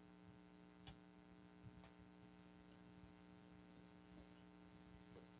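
Near silence: a faint steady electrical hum, with a couple of faint ticks.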